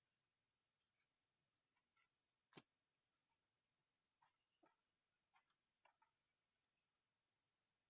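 Near silence with a faint, steady high-pitched insect drone, a single sharp click about two and a half seconds in, and a few faint short chirps.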